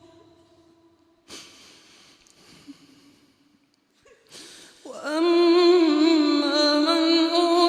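Male Quran reciter's voice. The last held note dies away in reverberation, a sharp breath comes about a second in and another a little after four seconds, then the chanted recitation starts again about five seconds in on a long, ornamented held note.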